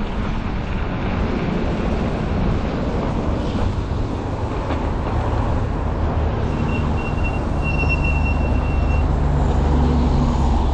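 Steady low rumble of riding a 48 V fat-tire e-bike, with tyre and wind noise and road traffic, and a thin steady high whine for a couple of seconds past the middle.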